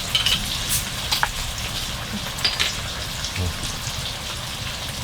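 Marinated pork ribs sizzling as they grill: a steady hiss with scattered small pops and crackles.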